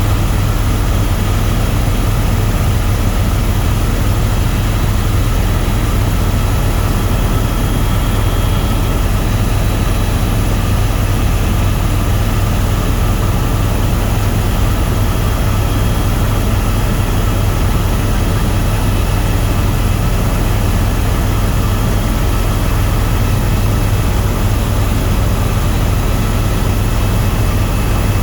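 Tour helicopter in flight: a steady, loud drone of rotor and turbine that does not change.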